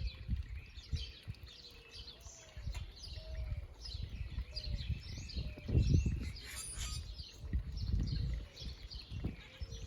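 Several small birds chirping and twittering in quick, overlapping short calls, with a repeated short low whistle. Irregular low rumbles come and go, loudest about halfway through and again near the end.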